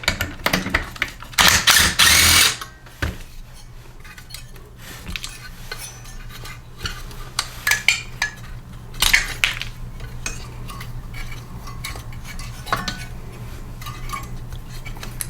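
Metal clinks and rattles of tools and engine parts as the carburetor is unbolted from a Briggs & Stratton small engine. A loud tool burst lasting about a second comes about a second and a half in.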